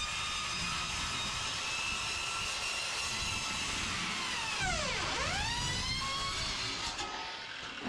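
Power saw cutting through a metal roofing panel along a chalk line: a steady, loud high whine whose pitch dips sharply and climbs back about five seconds in as the blade loads up, then fades near the end.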